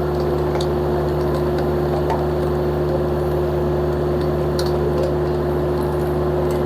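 Vermeer mini skid steer's engine running steadily at full throttle, with a steady whine, as its screw-cone log splitter bores into a log; faint scattered ticks and cracks come from the wood.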